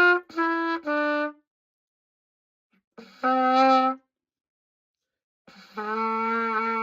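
Pocket cornet playing a descending scale to test its low range: a few short notes stepping down, then after pauses two longer, lower notes, the last one held for over a second.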